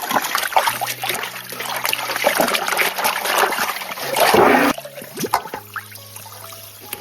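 Water splashing and trickling, loudest just past four seconds in, then dying away at about five seconds.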